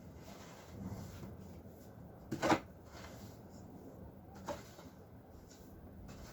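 Two short knocks or clatters, the louder about two and a half seconds in and a fainter one about two seconds later, over a low steady rumble.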